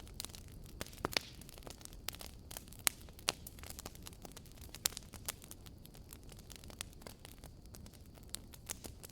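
Wood fire crackling, with irregular sharp pops and snaps over a low steady hiss and rumble of burning.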